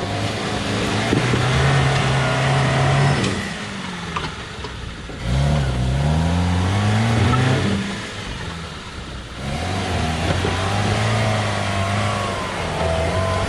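Off-road 4x4's engine working under load, throttle opening and closing: it eases off twice, and in between the revs climb sharply about five seconds in.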